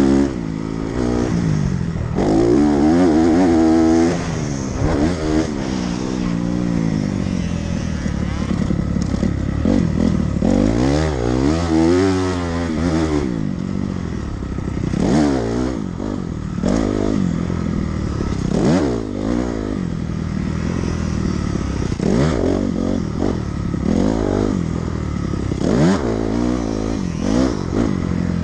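Dirt bike engine revving hard and falling back over and over as the bike is ridden around a motocross track, its pitch rising through each run and dropping off between.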